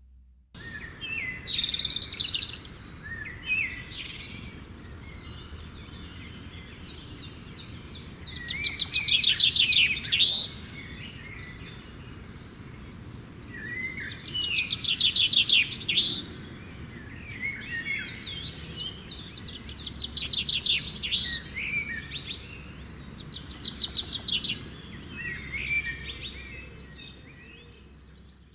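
Songbirds singing and chirping, with fast trills and repeated phrases, over a steady low background rumble; it starts and stops abruptly.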